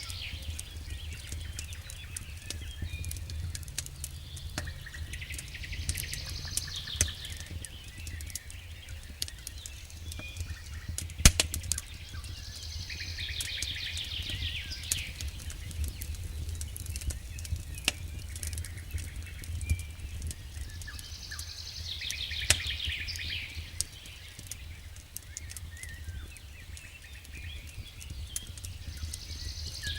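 Wood fire crackling in a fireplace, with scattered sharp pops over a low rumble; the loudest pop comes about eleven seconds in. A high, descending trill, like a songbird's, recurs about every eight seconds.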